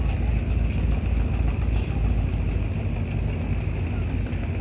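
A boat's engine running under a heavy low rumble of wind and rough water; the engine's steady hum comes through more clearly over the last couple of seconds.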